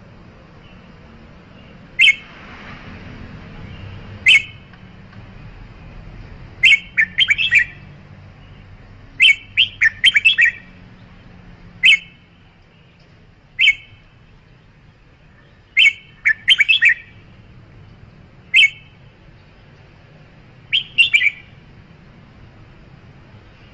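Red-whiskered bulbul calling: short, bright chirpy phrases, some a single note and some a quick run of three or four notes, repeated about every two seconds with pauses between.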